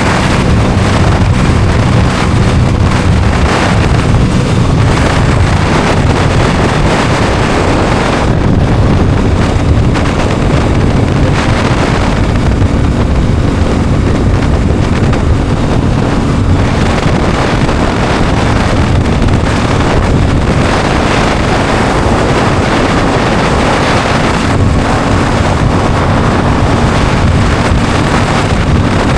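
Aprilia Tuono 660's parallel-twin engine running steadily under way, its pitch shifting slightly, largely buried under heavy wind noise on the microphone.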